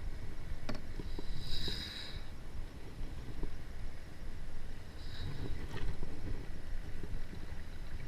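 Wind buffeting a camera microphone on a kayak, with water moving against the hull, a few light knocks and two short hissy splashes.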